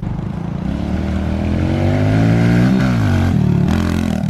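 Small off-road motorcycle engine revving: the pitch climbs to a peak about two and a half seconds in, drops back, then picks up briefly again, growing louder as the bike comes close.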